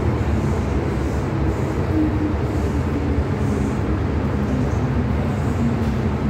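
MTR Tsuen Wan Line M-Train running steadily along the track: an even low rumble of wheels and running gear, with a faint wavering hum above it.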